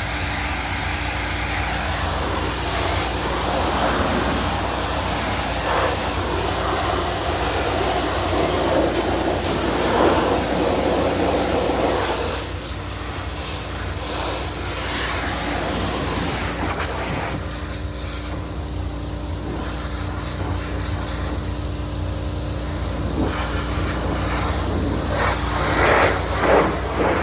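Hot water pressure washer running, its motor giving a steady hum while the high-pressure spray hisses against greasy equipment. The spray noise swells and fades as the wand is moved, with a few short louder blasts near the end.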